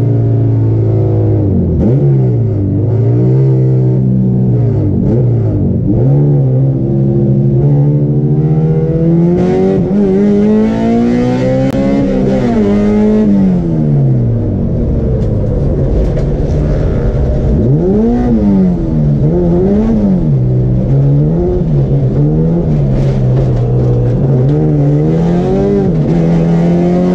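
Race car's engine heard from inside the cabin, revving up through the gears with the pitch dropping back at each shift. About halfway through it winds down, then rises and falls several times in quick succession before climbing again near the end.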